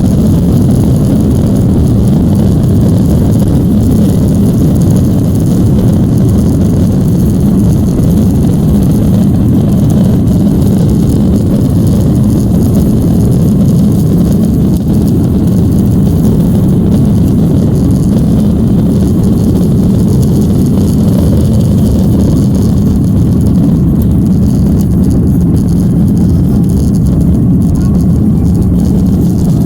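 Airbus A330-200 jet engines at takeoff power heard from inside the cabin: a loud, steady, deep rumble of engine and airflow noise with no clear change.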